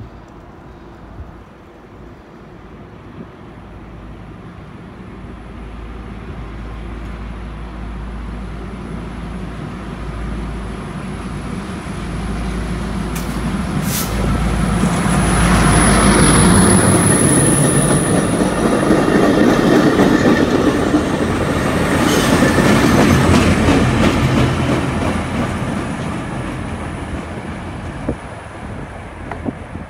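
Diesel locomotive pulling a short train past the platform: the engine and wheel noise builds as it approaches, is loudest as it passes about halfway through, then fades as it moves away. Wheels click over the rail joints.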